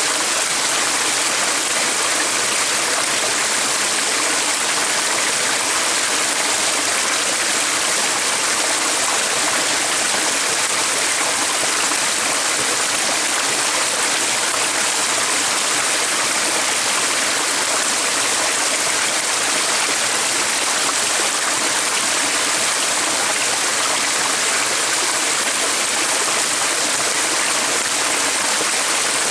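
Running water of a stream: a steady, unbroken rush and hiss.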